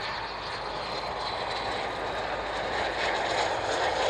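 Aircraft engine noise from a passing fixed-wing aircraft, a steady roar that grows louder toward the end.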